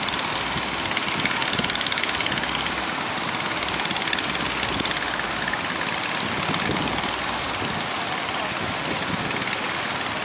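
Boat engine running steadily under a loud, even rush of water and wind as the boat pushes through big waves.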